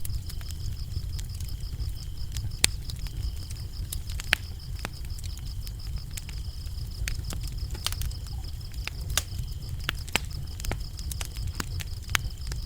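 Wood fire crackling, with sharp pops scattered irregularly over a low, steady rumble, while crickets chirp in a continuous high trill.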